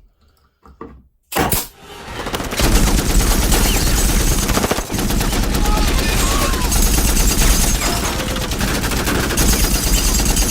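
Sustained rapid gunfire, like machine-gun fire, starting about two seconds in and running on without a break.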